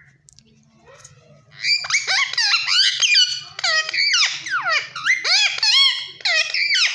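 Parrot chattering and squawking: a rapid run of short, shrill calls sliding up and down in pitch, starting about a second and a half in.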